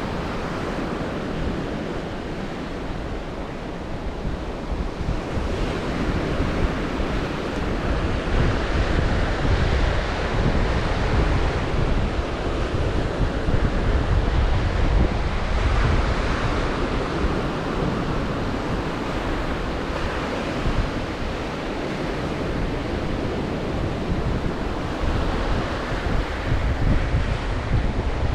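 Black Sea surf washing onto the shore, a continuous rush of breaking waves that swells and eases over several seconds, loudest about halfway through. Strong wind buffets the microphone with a low rumble underneath.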